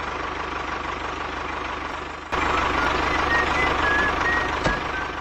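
Truck engine running steadily with a fast low pulse, stepping up sharply in loudness about two seconds in.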